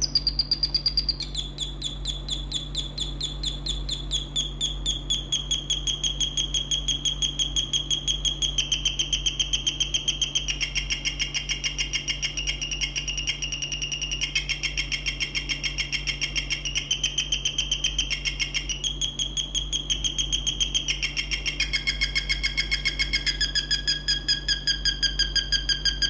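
Electronic bird-chirp generator, a home-built transistor circuit, chirping: a fast, even train of about five electronic chirps a second. The pitch jumps to a new level every few seconds, dropping lower near the end.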